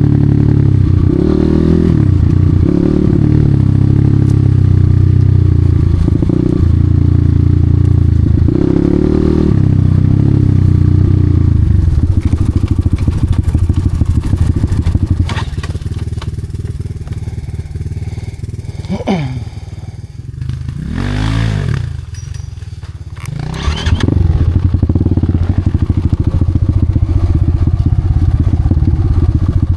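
Enduro motorcycle engine running hard off-road, the revs rising and falling with some clatter from the ground. About twelve seconds in it drops to a quieter running with a few revs swelling and falling back. About 24 seconds in it picks up loud again.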